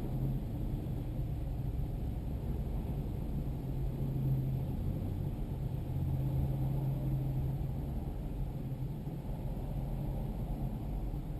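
Diesel tractor engine running steadily under way, a low, even drone.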